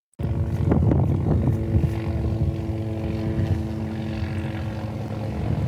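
Engine running steadily, a droning hum of several held tones over a low rumble, starting abruptly just after the start.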